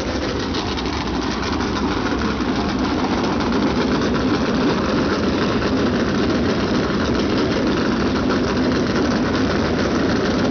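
Several USAC Silver Crown race cars' 360-cubic-inch alcohol-burning engines running together after being fired up for the start, a dense steady engine sound that grows a little louder about two seconds in.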